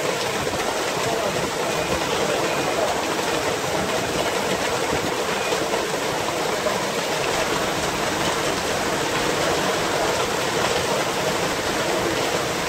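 Heavy rain pouring onto a wet street, a steady dense hiss of drops hitting the road and puddles.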